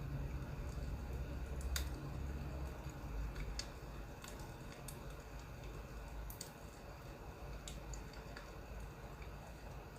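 Firewood crackling: irregular sharp pops and snaps over a low steady rumble.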